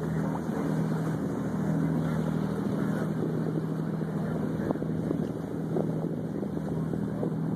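Boat motor running steadily, a constant low hum, over water and wind noise.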